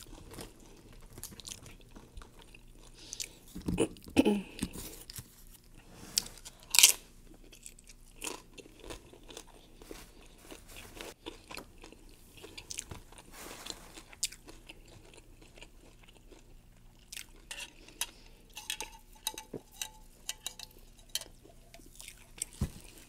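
Close-miked crunching and chewing of fried tortilla chips: sharp crisp crunches at irregular intervals, the loudest about seven seconds in, between softer chewing.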